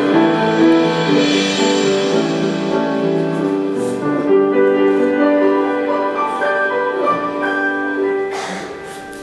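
Instrumental theatre underscore led by piano or keyboard: slow, held chords and a melody line that fade down near the end.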